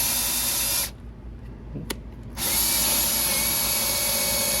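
Ridgid cordless drill spinning a freshly chucked bit with a steady whine. It stops about a second in, there is a sharp click, and it starts up again about two and a half seconds in.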